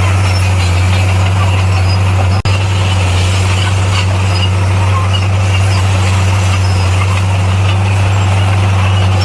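Heavy earthmoving machine's diesel engine running steadily with a low, even drone, broken by a brief dropout about two and a half seconds in.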